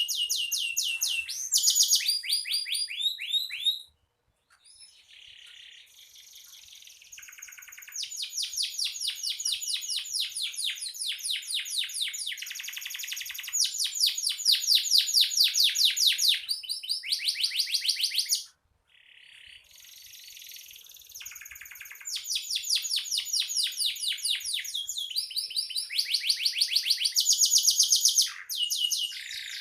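Domestic canary in full song, running through long rolling trills of fast repeated notes, breaking off briefly twice.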